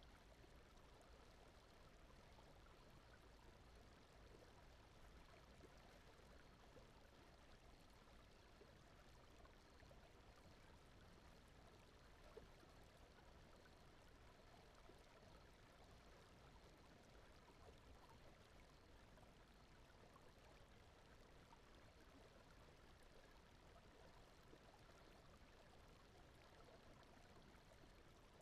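Faint, steady sound of running water, like a gently flowing stream.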